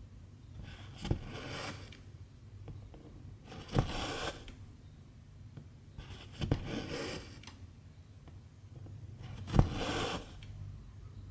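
Cross-stitch needle punching through the fabric with a sharp click, then silk thread drawn through with a short rasping pull. This happens four times, about every two and a half to three seconds.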